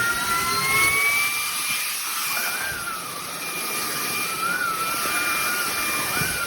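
Fieety 600 W cordless stick vacuum running, its motor giving a steady high whine with hiss; the whine rises in pitch over the first second or so, then wavers.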